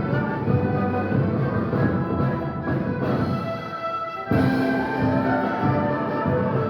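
Live ensemble of Andean and Latin American instruments playing with sustained notes; the music thins out a little past three seconds and comes back in full just over four seconds in.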